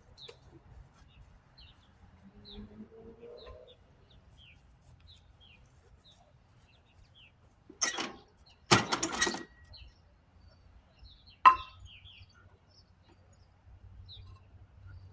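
Small birds chirping repeatedly in the background, broken by two loud clanks or knocks about eight and nine seconds in and a sharp click a couple of seconds later.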